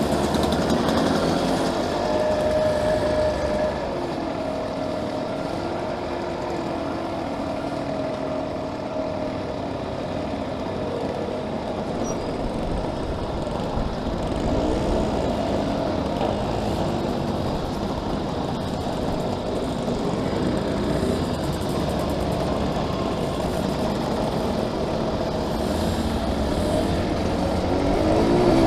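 A small classic motorcycle engine running under way, its pitch rising and falling as the revs change.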